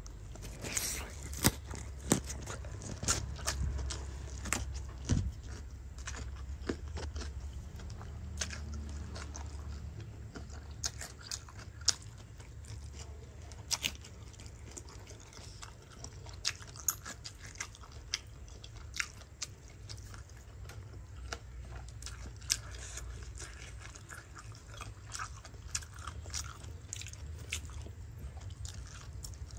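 Close-up eating of fried pig intestine: a person biting and chewing, with sharp crunchy bites at irregular intervals.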